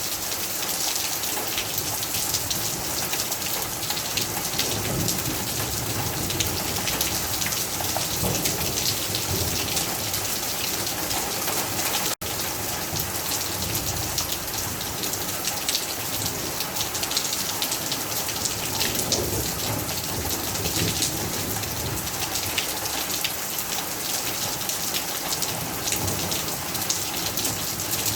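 Steady rain falling, with many individual drops ticking close by. The sound cuts out for an instant about twelve seconds in.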